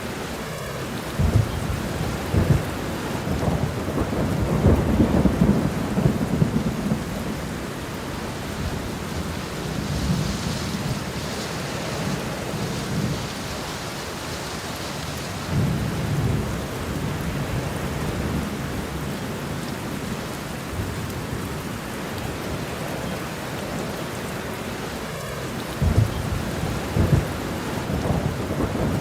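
Steady rain with thunder rumbling several times. The rumbles are strongest about four to seven seconds in and again near the end, and the rain's hiss swells for a few seconds in the middle.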